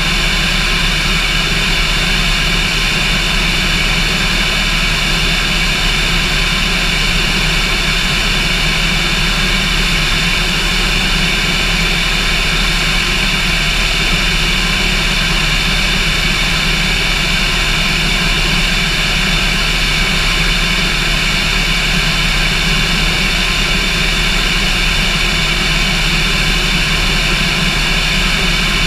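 Cessna light aircraft's piston engine and propeller running steadily at a constant power setting, a loud, unchanging drone.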